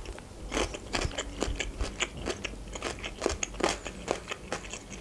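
Close-miked chewing of pasta in cream sauce, heard as irregular mouth clicks, several a second.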